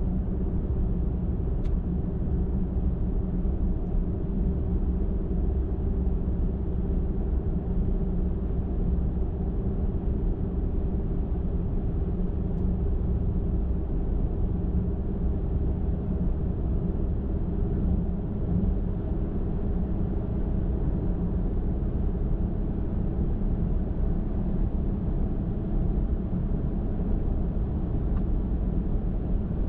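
Car cruising at steady highway speed: a constant low rumble of tyres on the road and the engine, with a faint steady hum.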